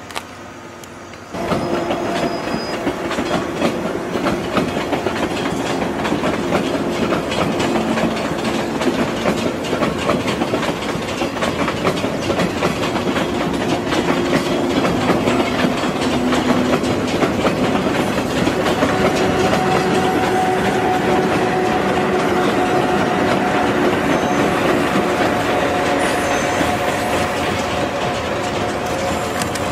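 A JNR 189-series electric limited express, banked by coupled locomotives, rolling over jointed rail and pointwork: a steady clickety-clack of wheels with a continuous mechanical hum carrying a few held tones. It cuts in suddenly about a second and a half in.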